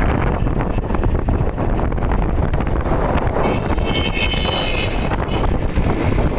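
Heavy wind buffeting the microphone, a steady low rumble. About three and a half seconds in, a high, several-toned sound rises above it for under two seconds, then stops.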